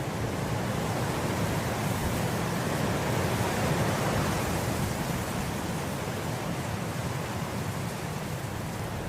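Wind blowing through grass: a steady rushing that swells into a gust about three to four seconds in, then eases.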